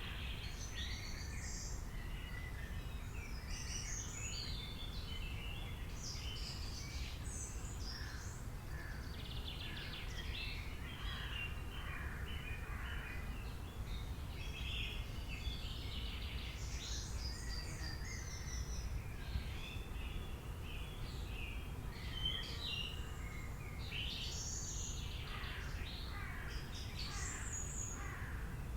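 Several songbirds chirping and trilling in short overlapping phrases, over a steady low background rumble.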